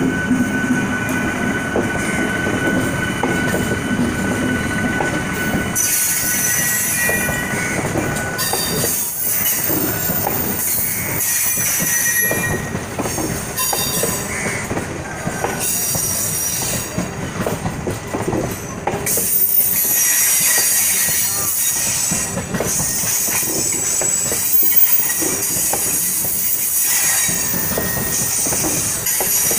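A mainline electric multiple unit (MEMU) train running past close by, its wheels rumbling and knocking on the rails. A high-pitched wheel squeal sets in about six seconds in and carries on as the coaches go by.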